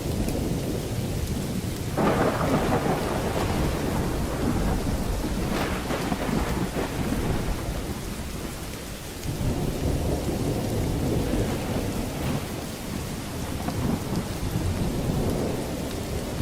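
Thunderstorm with steady rain hissing and thunder rumbling low underneath. A louder thunder peal breaks about two seconds in, its rumble dies down around nine seconds, and another roll of thunder swells up after it.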